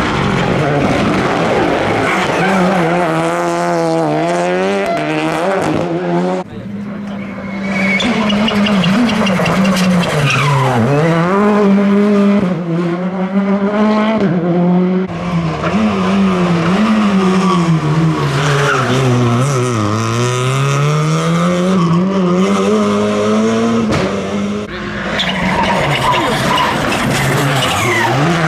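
Rally car engine running hard at high revs, its pitch swinging up and down again and again as the car is driven sideways, with tyre squeal over it. The engine note drops back briefly twice, about a quarter of the way in and near the end.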